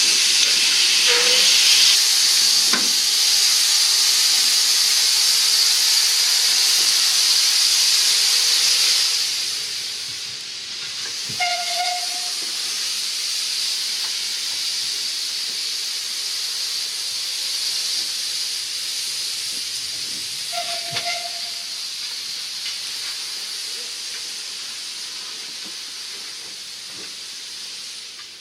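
A loud, steady hiss of gas venting under pressure drops off sharply about nine seconds in, then carries on more quietly and fades toward the end. Three short squeaks stand out against it, about a second, twelve seconds and twenty-one seconds in.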